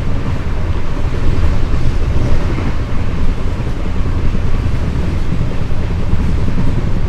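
Moving passenger train, a loud steady rumble from the running coach with wind buffeting the microphone.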